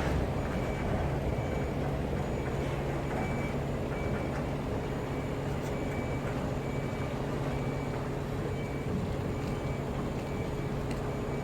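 A motor vehicle's engine running steadily: a low, even hum with road noise.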